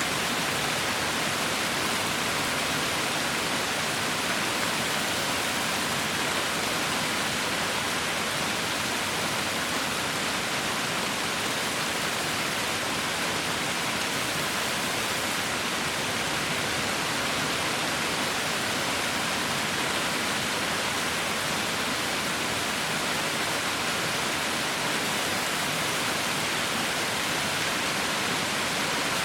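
Heavy rain falling as a steady, even hiss with no distinct drops or thunder.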